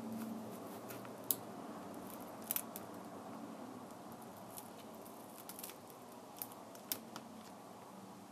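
Small sharp clicks and ticks, about eight scattered over several seconds, from hand tools and plastic parts handled while a Kindle Fire tablet is being taken apart, over a faint steady hum.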